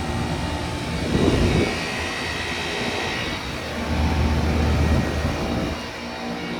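Several heat pump outdoor units running at once, a steady drone of fans and compressors with a deeper hum that swells for a couple of seconds past the middle.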